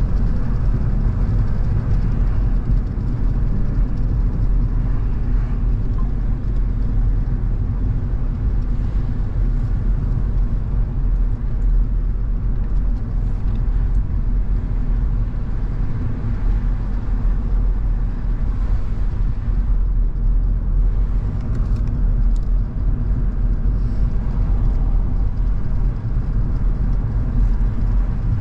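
A car driving along at a steady pace: engine and tyre noise as an even, low-pitched hum with no changes in speed.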